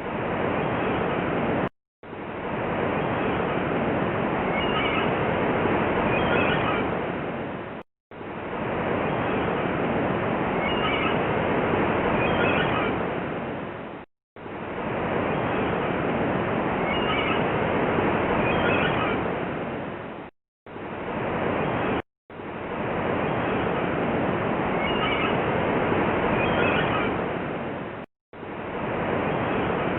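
Surf rushing, cut into a loop that repeats about every six seconds with a brief dead-silent gap between repeats. A few short gull cries come at the same point in each repeat.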